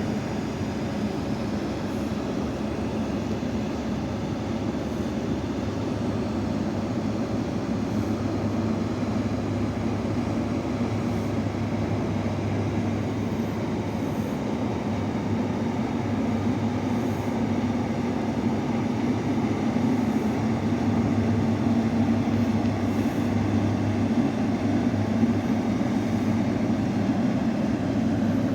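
Ship's engine droning steadily with a low hum, growing slowly louder toward the end.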